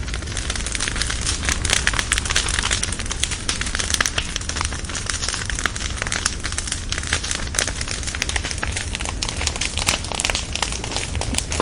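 Bonfire with logs crackling and popping continuously over a steady hiss and low rumble of the flames.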